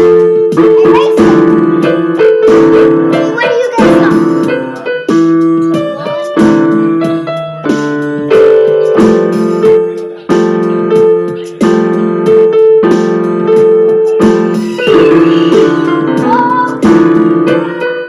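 Piano-type keyboard music: chords struck in a steady rhythm, a new chord about every half second to second, with a faint wavering melody line near the end.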